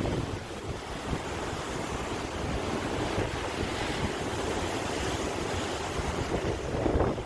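Sea waves washing and breaking continuously, swelling louder near the end, with wind rumbling on the microphone.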